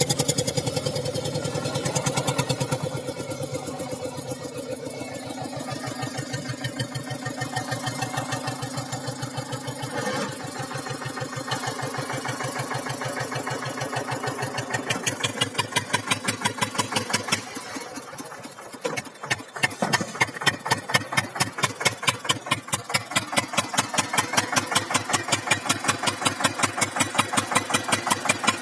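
Eicher 242 tractor's diesel engine running with a steady, even chug. It dips briefly about two-thirds of the way through, then comes back louder.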